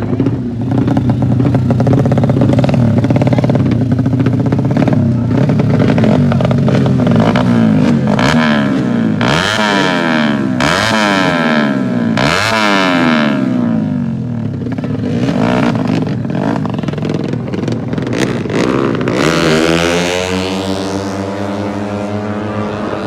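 200 cc motocross bikes racing, engines revving hard. In the middle, their pitch repeatedly climbs and drops as they go by. Near the end, one engine revs up and holds a high note.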